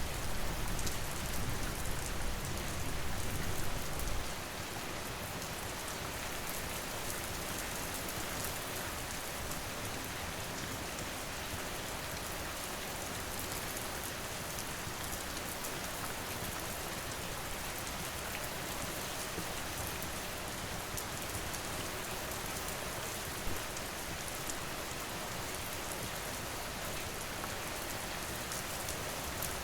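Steady rain falling, with a low rumble under it for the first four seconds that cuts off suddenly.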